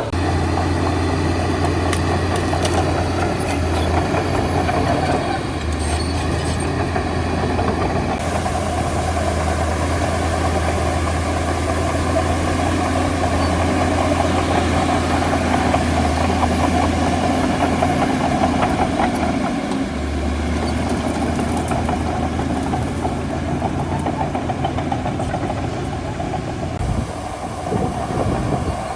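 Shantui DH17C2 bulldozer's diesel engine running steadily under load, with a dense rattle over the low engine note; the engine note shifts a couple of times.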